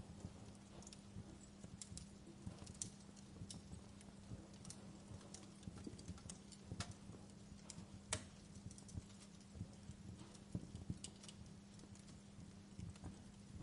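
Wood fire crackling, with irregular sharp pops and snaps over a steady low hum; the two loudest pops come about seven and eight seconds in.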